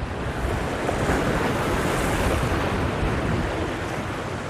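Ocean surf washing in, a swell of rushing noise that builds about a second in and eases off near the end, with wind buffeting the microphone.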